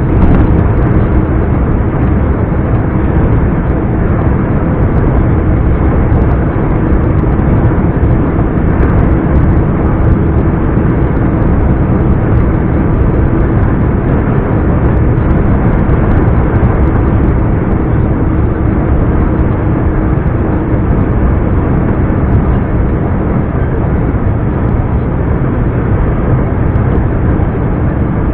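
2007 Scania R420 truck's turbocharged 12-litre inline-six diesel engine running steadily while driving, a continuous loud drone with a steady hum held through it.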